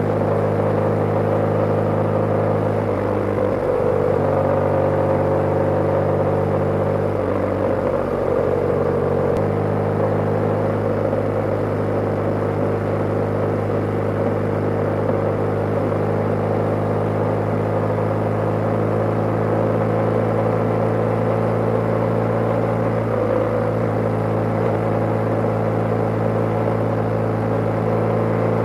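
BMW G/S flat-twin motorcycle engine running under way at a steady cruise. Its note shifts between about three and nine seconds in, as with a throttle change, then holds steady.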